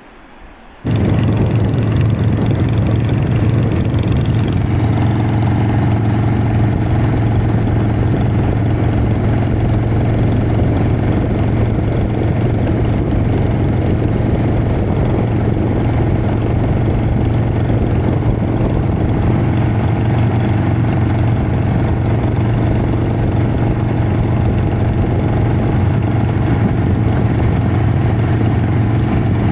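Harley-Davidson Sportster V-twin engine running steadily, coming in suddenly about a second in and holding an even pitch with no revving.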